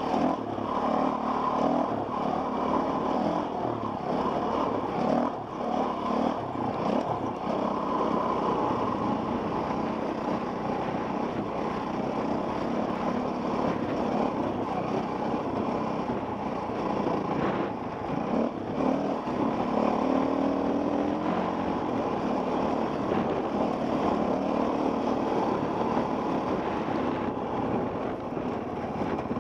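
Enduro dirt bike engine running continuously while riding a trail, its pitch rising and falling with the throttle, heard from a helmet camera with wind noise over it.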